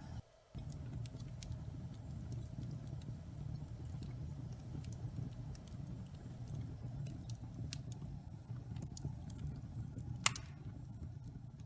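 Wood fire burning in a fireplace: a steady low rumble of flames with scattered sharp crackles and pops, and one louder pop about ten seconds in. The sound drops out briefly just after the start.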